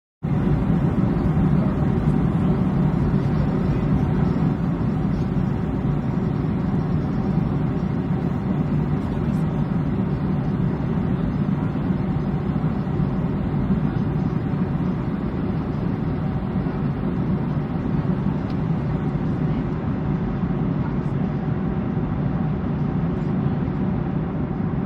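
Steady, unchanging low drone of an airplane's engines, with a faint hum running through it.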